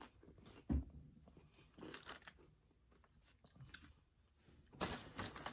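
A person chewing and biting food, here chicken lo mein picked up with chopsticks, with small clicks throughout and one louder thump just under a second in.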